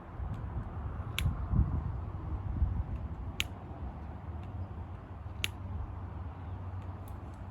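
Wood campfire burning: a steady low rumble with three sharp crackling pops about two seconds apart.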